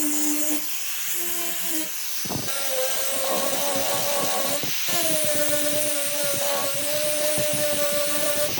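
Electric power tool running under load, a steady motor whine that shifts up in pitch a few times, with a brief dip about two seconds in.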